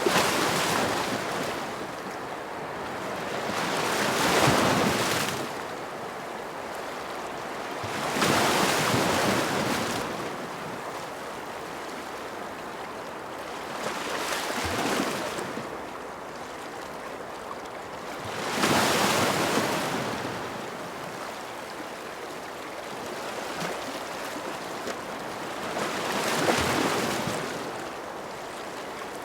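Ocean waves breaking in repeated surges, six in all, each swelling and fading over a second or two, over a steady hiss of surf.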